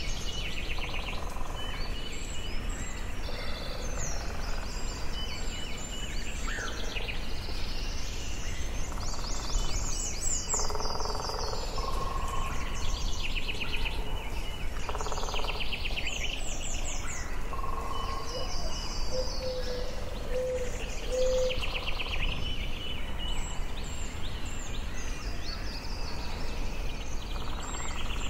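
Forest birdsong: several songbirds singing in overlapping phrases of fast trills, chirps and whistled notes, over a steady low rumble.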